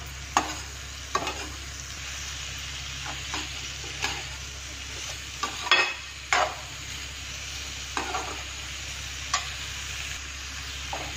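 Potato and cauliflower pieces frying in oil in a metal kadai, with a steady sizzle. A slotted metal spoon stirs them, scraping and clinking against the pan at irregular moments.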